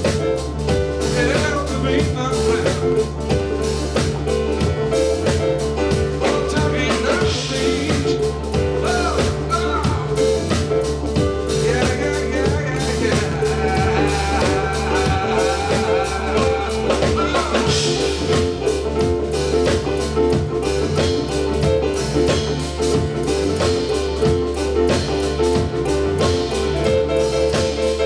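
Live band playing an instrumental-leaning blues-rock song. A drum kit keeps a steady beat under a repeating bass line, and a lead melody bends in pitch over the top.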